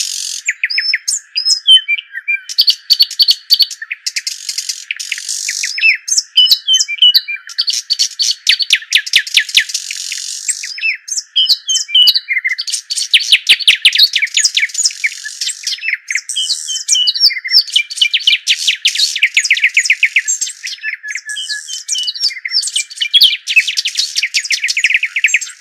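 Small songbirds chirping and trilling in rapid runs of repeated high-pitched notes with short pauses between runs, heard thin with no low end.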